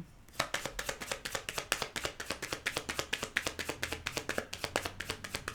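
A deck of tarot cards being shuffled by hand: a quick, uneven run of papery slapping clicks, several a second.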